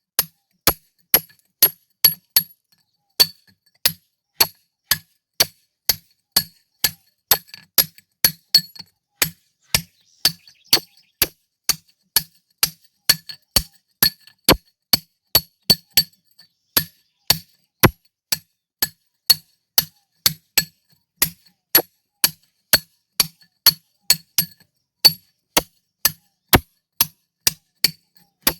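Hammer striking a steel chisel into rock by hand: sharp metallic clinks at a steady pace of about two a second, with a couple of short pauses.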